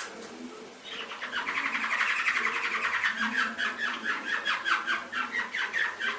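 Domestic canary singing: after a short pause it goes into long, fast trills of rapidly repeated notes.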